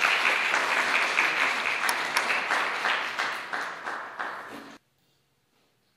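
Audience applauding, dense clapping that eases slightly and then cuts off suddenly about three-quarters of the way in, leaving near silence.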